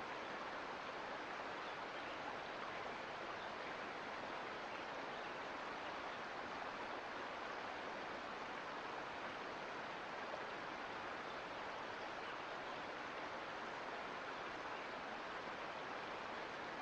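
Mountain creek water flowing over rocks, a steady even rush with no breaks.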